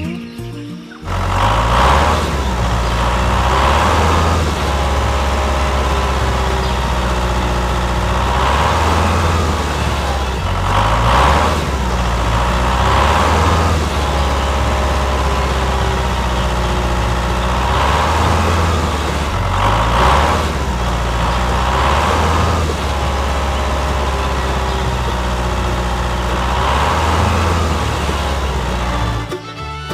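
Tractor engine running steadily with a low hum, swelling slightly every couple of seconds. It starts about a second in and cuts off just before the end.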